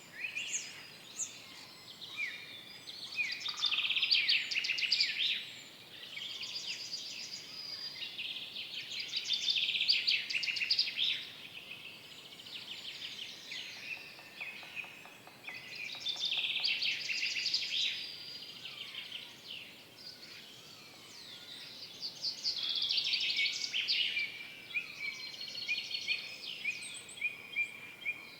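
Songbirds singing in a forest: several overlapping voices of rapid trills and chirps that come in bursts of a few seconds with quieter pauses between, over a faint background hiss.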